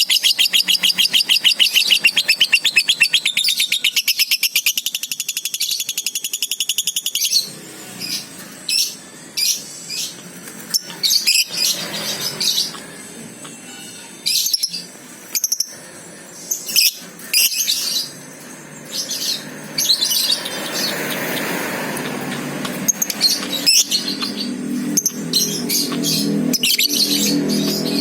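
Lovebirds chirping: a fast, unbroken run of shrill chirps for the first seven seconds or so, then single short chirps at intervals. A steady lower noise sits under the chirps near the end.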